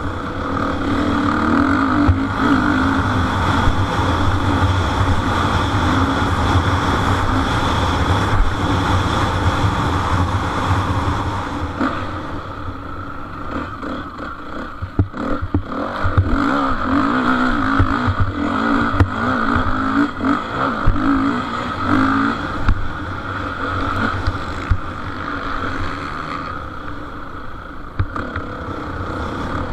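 Motocross motorcycles racing, their engines revving hard and rising and falling in pitch. The engine noise swells loudest in two long passes, dipping between them, with scattered knocks and clatter around the middle.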